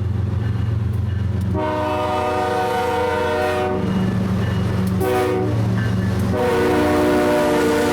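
Diesel freight locomotive's air horn sounding a crossing signal: a long blast, a short one, then another long one, over the steady low rumble of the locomotive and train.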